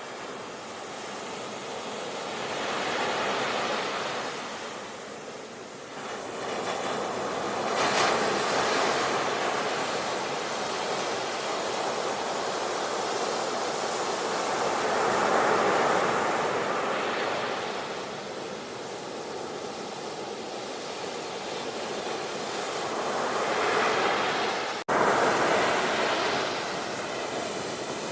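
Sea waves washing in and out, the surf rising and falling in slow swells every several seconds. A brief sharp break in the sound comes a few seconds before the end.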